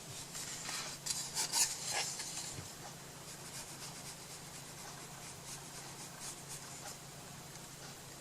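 A few quick scratchy rubbing strokes of hand work on paper and wood in the first couple of seconds, then only a faint steady low hum.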